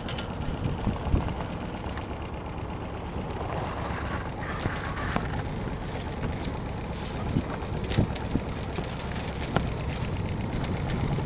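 Wind buffeting the microphone over a steady low rumble, with scattered sharp clicks and knocks.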